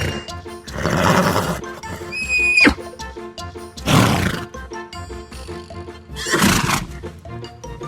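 A horse neighing and whinnying in several separate calls, one a high held note that falls away, over steady background music.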